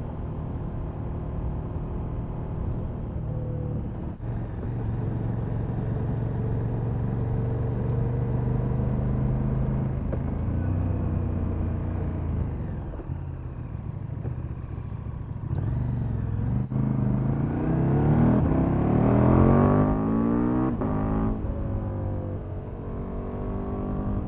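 KTM Super Duke's V-twin engine through its stock exhaust while riding. It runs at a fairly steady pitch, then revs up strongly in a rising sweep about two-thirds of the way through, and drops back as the throttle closes.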